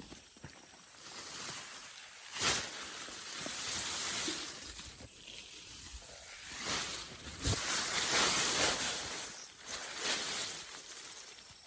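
Grass and leafy vegetation rustling and swishing in repeated swells, as when grass is cut and handled by hand. There is a sharp snap about two and a half seconds in and another about seven and a half seconds in.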